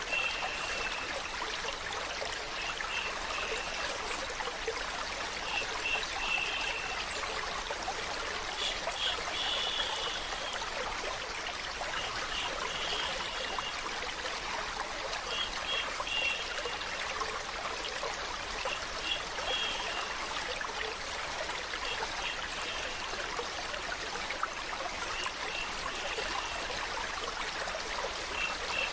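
A stream of water running and trickling steadily in an even rushing hiss. Brief clusters of short high notes recur every few seconds over it.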